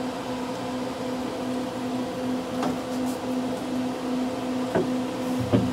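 A steady mechanical hum, with a few faint clicks about three, five and five and a half seconds in.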